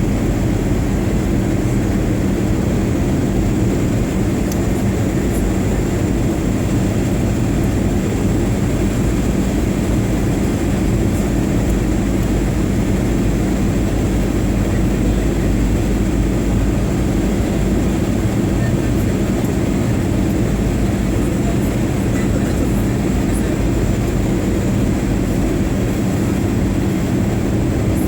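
Boeing 737-800 airliner in flight: an even, unbroken roar of its CFM56 turbofan engines and airflow, with a faint steady high whine above it.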